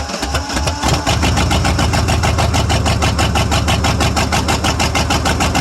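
Ford 5.8-litre (351) V8 of a 1995 F-150 cranking briefly, catching about a second in, then running with a strong, even pulsing beat. Two of its cylinders don't fire, which the owner puts down to a blown head gasket or a cracked head.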